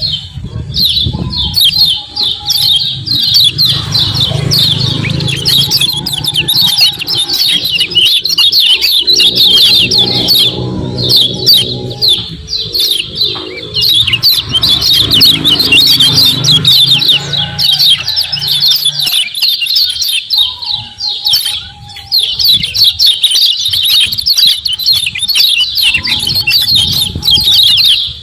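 Kecial kuning (white-eye) giving a fast, unbroken 'ciak ciak' chatter of high chirps, a lure call meant to stir other white-eyes into song. A low rumble sits beneath it for much of the time.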